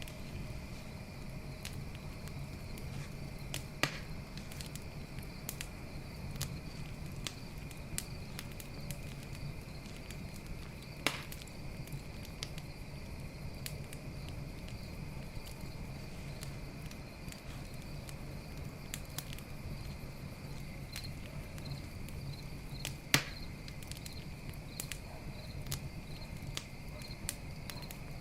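Campfire crackling with a steady patter of small clicks and a few sharp pops, the loudest about 23 seconds in. Crickets chirp steadily behind it.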